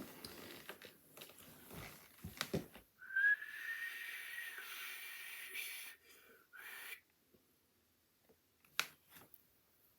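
A long whistled note that rises slightly and then holds for about three seconds, followed by a short second whistle. Soft knocks come before it, and a single sharp click comes near the end.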